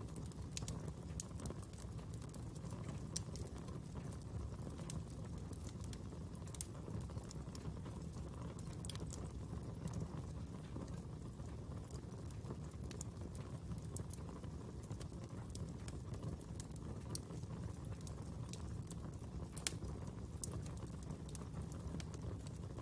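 Wood fire burning with a steady low rumble and irregular sharp crackles and pops, two louder pops standing out about three seconds in and near the end.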